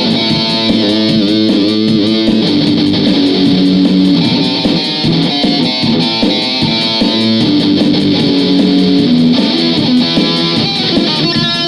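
Guitar playing a continuous lead line of riffs and licks, with notes bent up and down in pitch.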